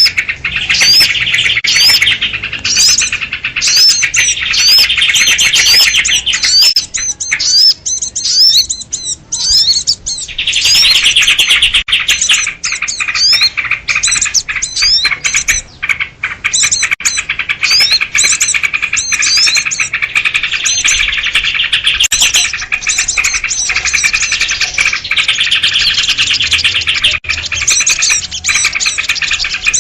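A noisy crowd of small birds led by sooty-headed bulbuls (kutilang), chattering and chirping fast and continuously in excited, alarm-like calls, with many short rising notes on top. The chatter thins briefly about a third of the way in, then comes back as dense as before.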